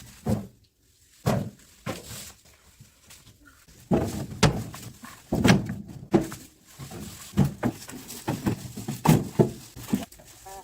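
An irregular series of about a dozen heavy thunks and knocks, with short gaps between them.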